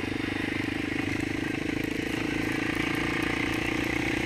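Single-cylinder four-stroke ATV engine running steadily at an even pace.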